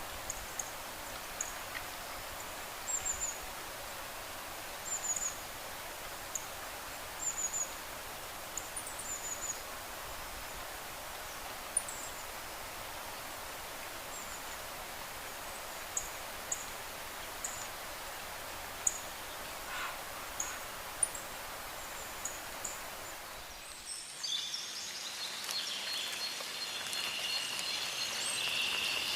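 Outdoor nature ambience: a steady hiss with short, high chirps from small birds about once a second. About 24 s in it switches abruptly to a steady, high trilling chorus of calling frogs and insects that grows louder toward the end.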